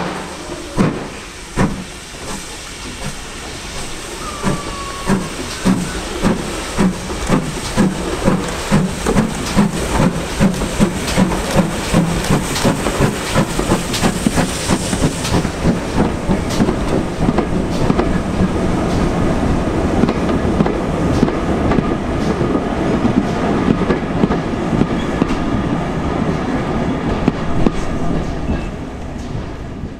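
Steam-hauled train running past, its wheels clattering over rail joints in a steady clickety-clack that gets faster and louder as the train goes by.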